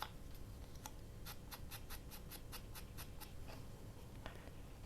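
Faint light tapping on paper during hand crafting work: a quick, even run of about ten taps at roughly five a second in the middle, with a few scattered taps before and after.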